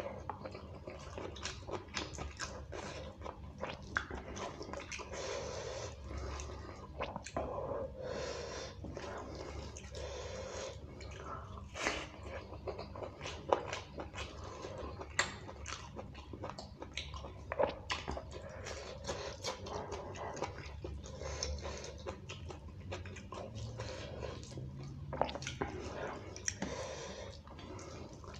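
Close-miked wet chewing and lip-smacking of a person eating beef curry and rice by hand, with many sharp smacks and a few louder ones scattered through, alongside the squelch of fingers mixing rice into the curry.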